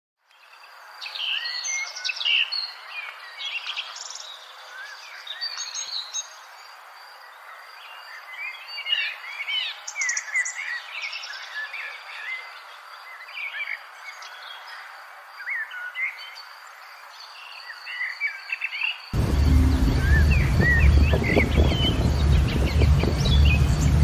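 Songbirds chirping and singing, many short rising and falling notes, over a faint steady hiss. About 19 seconds in, a loud low rumble starts under the birdsong.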